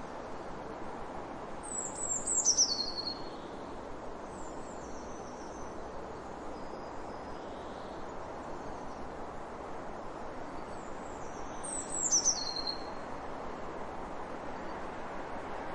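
A bird singing a short, high phrase that falls in pitch, twice, about ten seconds apart, with fainter high chirps in between, over a steady background hiss.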